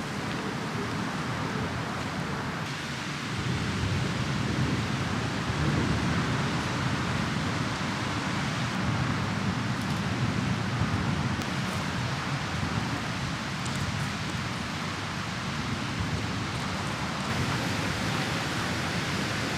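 Steady outdoor rushing noise with no distinct events, growing a little louder and deeper about three seconds in.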